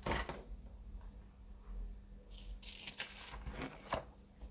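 Quiet handling noises of a model kit's packaging and booklet: a brief paper rustle and a few light clicks and ticks.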